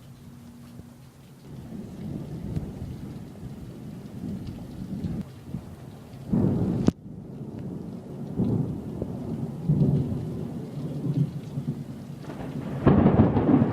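Thunder rumbling in rolls over steady rain, with a louder roll about halfway through that breaks off abruptly and another strong roll near the end.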